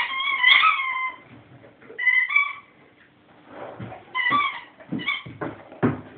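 A rubber squeaky dog toy being squeezed in a Great Dane's jaws, giving repeated high squeaks: one long squeak at the start, then short pairs. Dull low thumps come between them in the second half.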